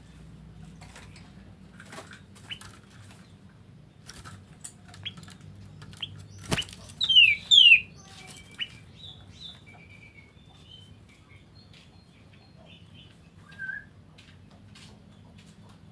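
A pet bird moving and calling: scattered clicks and a sharp knock about six and a half seconds in, then two or three loud, quick calls sliding down in pitch, followed by softer short chirps and one more call near the end.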